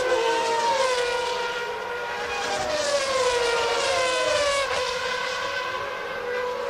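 Several 1992 Formula One cars' high-revving 3.5-litre engines, their high-pitched notes overlapping and sliding down in pitch one after another.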